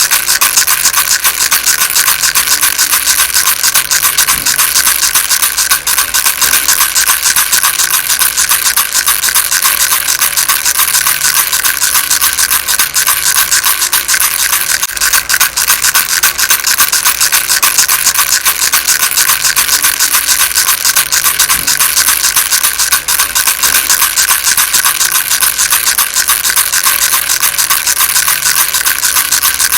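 Baby rattle shaken without a break: a fast, dense, steady rattling, bright and hissy, with hardly any low sound in it.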